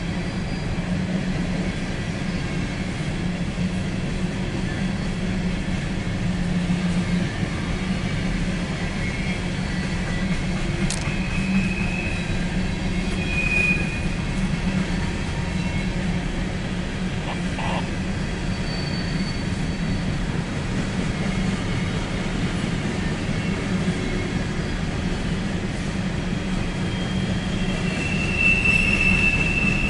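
Empty coal hopper cars of a freight train rolling steadily past, with brief high wheel squeals about twelve and thirteen and a half seconds in and a longer squeal near the end.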